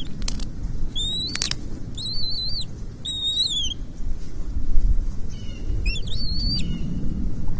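Bald eagle giving high, thin whistled calls: a short note about a second in, two longer wavering calls, then a quick string of chittering notes near the end, over a steady low rumble.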